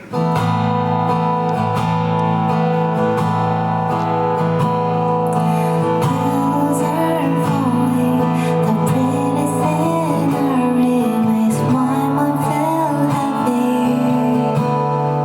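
Acoustic guitar strummed in a slow song's opening, joined by a solo singing voice about six seconds in.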